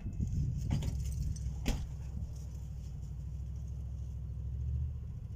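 Car engine running steadily as a car sits stuck in snow, with its wheels unable to get grip. Two sharp clicks come about one and two seconds in.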